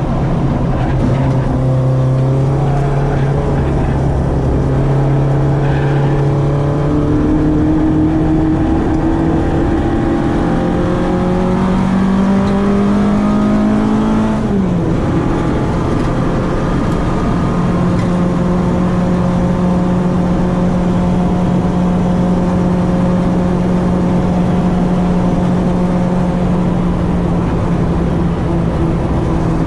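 Citroën AX 8-valve four-cylinder engine on twin Weber 40 carburettors, running hard on track. Its note holds steady at first, then rises for several seconds. About halfway through it drops suddenly, then settles into a steady note again.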